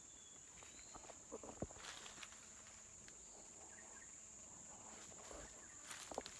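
Faint, steady, high-pitched insect drone, with a few soft knocks and rustles about a second or two in and again near the end.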